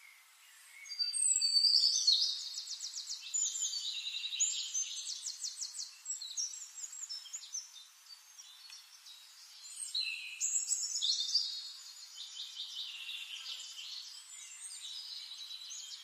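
Small birds chirping in fast, high-pitched trills and twitters. The chirping starts about a second in, comes loudest in two bursts near the start and around ten seconds in, and carries on more softly in between and toward the end.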